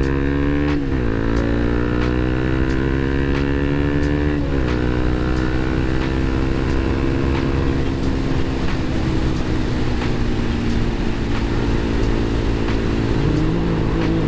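Motorcycle engine accelerating: its pitch climbs and drops sharply twice as it shifts up, about a second in and again about four and a half seconds in, then it runs at a steady cruise.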